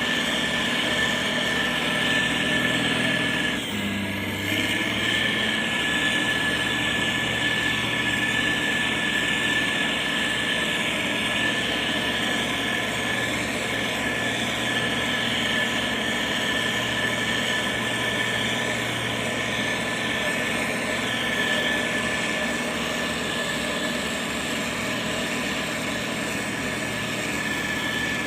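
Motor grader's diesel engine running steadily under load, with a steady high whine over the engine's low pulsing, and a brief dip and change in engine note about four seconds in.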